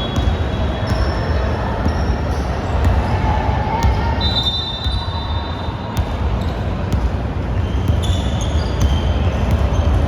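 Basketball bouncing on a hardwood gym floor during play, a scatter of sharp knocks throughout, with short high squeaks of sneakers over a low rumble from the hall.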